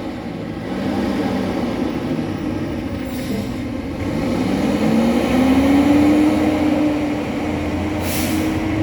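Garbage truck's diesel engine running, its revs dropping and then climbing again about five seconds in and holding higher. A short burst of air hiss comes near the end.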